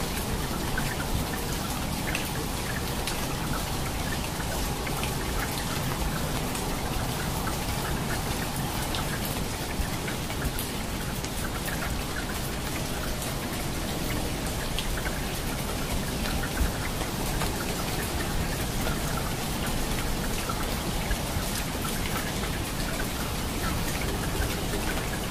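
Steady rain falling, a continuous hiss with many close raindrops ticking on a hard surface.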